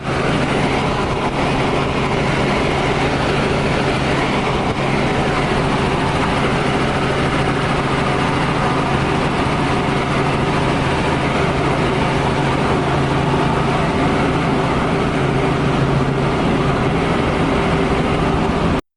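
Steady vehicle engine noise with a low hum. It cuts off suddenly just before the end.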